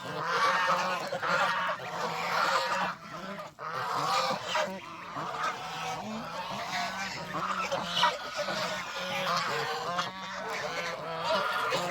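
A flock of domestic geese honking, many calls overlapping continuously.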